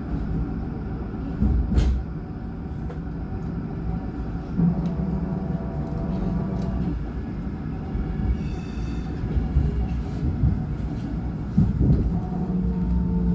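Alstom NGT8D low-floor tram (built 2007) running on its rails: a continuous low rumble with a sharp knock about two seconds in. A steady hum from the drive comes in twice, once in the middle and again near the end.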